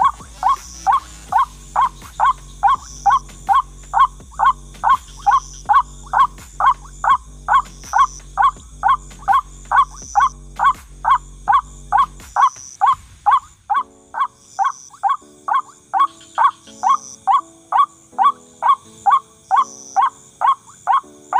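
White-breasted waterhen calls, a loud repeated 'kru-ak' about twice a second, steady and unbroken, as used for a trapping lure. Background music plays underneath, its bass dropping out and the tune changing about halfway through.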